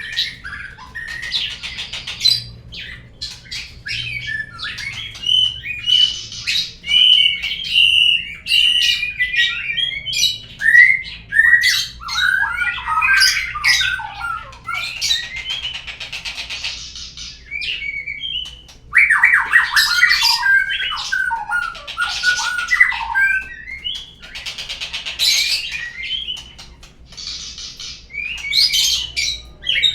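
Murai batu (white-rumped shama) song played as a lure recording: a continuous stream of varied whistles, quick chatters and harsh, scratchy phrases with short pauses between bouts.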